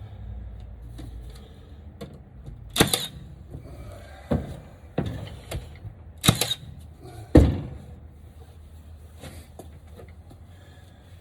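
Pieces of 2x4 lumber being set down and fitted together by hand, giving about five sharp wooden knocks spread over several seconds, the last ones the loudest.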